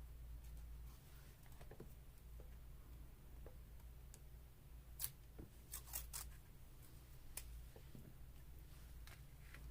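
Near silence over a low steady hum, with a few faint, sharp clicks of paper and craft tools being handled, most of them about five to six seconds in.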